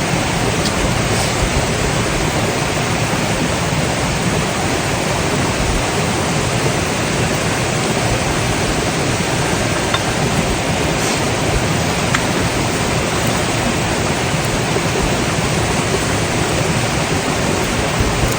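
Mountain stream rushing steadily over rocks, an even, unbroken water noise, with a few faint ticks here and there.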